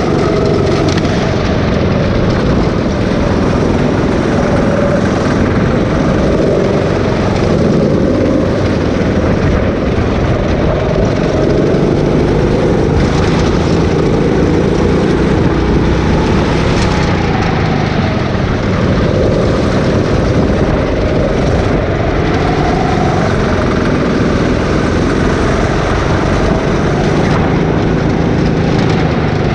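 Go-kart engine running under load throughout a lap, its pitch slowly rising and falling as it speeds up and slows for corners.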